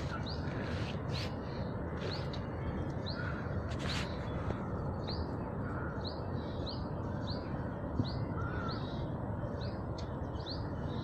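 Wild birds calling: one repeats a short, high chirp about twice a second in runs, and a lower call comes every few seconds, over steady background noise, with a couple of sharp clicks in the first few seconds.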